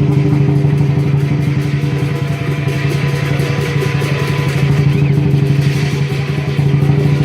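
Southern lion dance percussion: the big lion drum beaten in a fast, continuous roll, with cymbals and gong ringing over it.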